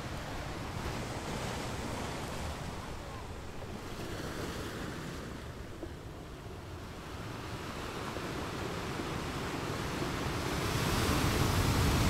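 Small waves washing onto the shore, with wind buffeting the microphone, getting louder near the end.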